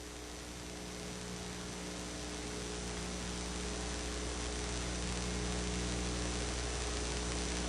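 Steady electrical mains hum with a layer of hiss, growing slowly louder.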